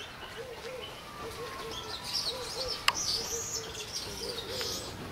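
Birds calling: a soft, low call repeated irregularly throughout, with higher chirping from small birds about two to four seconds in. A single sharp click sounds about three seconds in.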